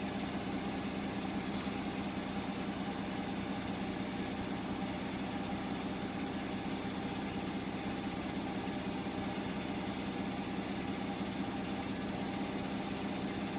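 Hotpoint washing machine on its spin cycle: the drum and motor give a steady, even hum, which is pretty quiet.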